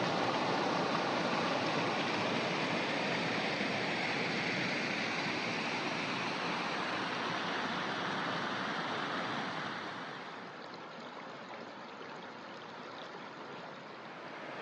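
Creek water rushing and splashing over rocks, a steady noise that drops to a quieter flow about ten seconds in.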